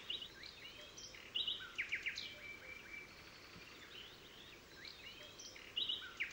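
Faint songbird chirps and short whistled phrases over a soft steady hiss, with a busier burst of calls about a second and a half in and the same burst again near the end.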